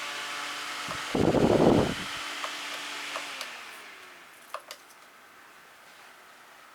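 Holmes Blizzard oscillating desk fan running with a steady motor hum and air hiss, with a loud low rumble about a second in. About three seconds in the motor's pitch slides down as the fan winds down to a stop, followed by a couple of light clicks.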